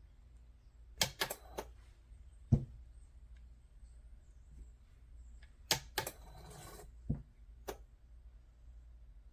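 Scattered sharp plastic clicks and knocks: a quick cluster about a second in, a louder single click at about two and a half seconds, then another cluster with a brief rustle near six seconds and two last clicks. These come from the Tastyle mini single-serve coffee maker being unplugged, plugged back in and handled. The machine makes no pumping or brewing sound because it is not working.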